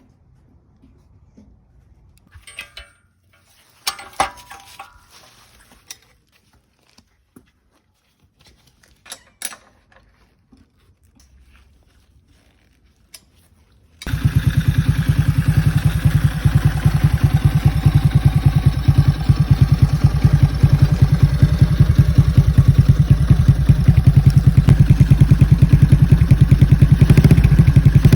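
A few scattered clicks and knocks, then about halfway through a Honda Super Cub's single-cylinder four-stroke engine starts and runs at a steady idle through a Nankai Power Comp aftermarket muffler, a loud, rapid, even exhaust pulsing.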